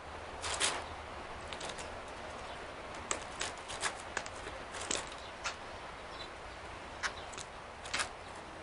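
Irregular sharp taps and short rustles, about a dozen, over a steady low hum: a California scrub jay hopping about and picking over peanuts in the shell.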